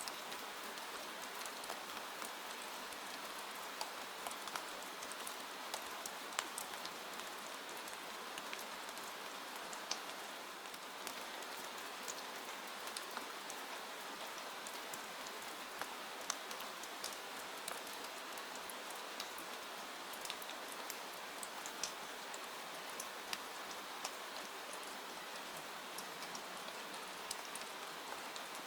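Steady rain falling, mixed with the scattered sharp crackles of a wood fire in a fireplace.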